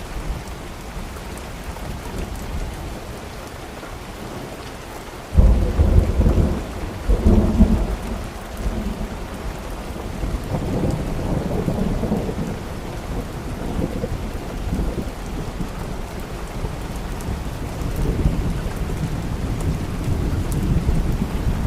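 Steady rain, broken about five seconds in by a sudden thunderclap with a second loud peak two seconds later, then thunder rolling on under the rain.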